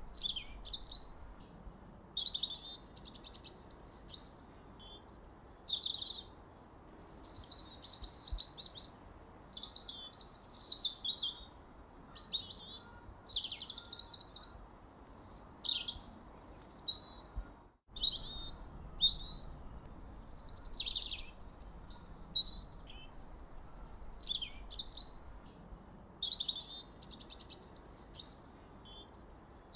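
Songbird singing: short, varied high chirping and warbling phrases every second or two over a faint steady background hiss, with a brief cut to silence about two-thirds of the way through.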